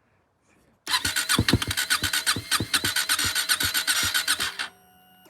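KTM 250 motorcycle engine cold-starting after long storage: a rapid, uneven run of firing pulses that lasts about four seconds and then cuts off. A brief, quieter steady tone follows near the end.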